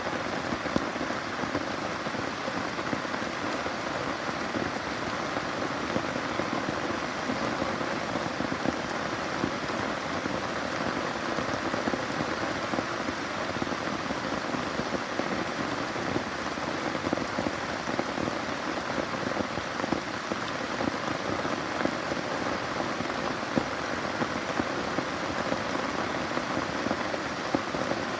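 Steady rain falling: a dense, even hiss with many separate drop ticks in it, unchanging throughout.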